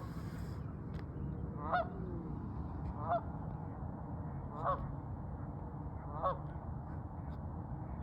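A goose honking four times, evenly spaced about one and a half seconds apart.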